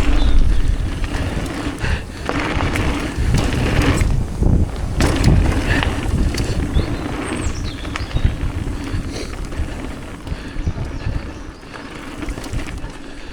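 Downhill mountain bike riding fast down a dirt trail: tyres rumbling over the ground, with knocks and rattles from the bike over bumps, and heavy wind buffeting the microphone.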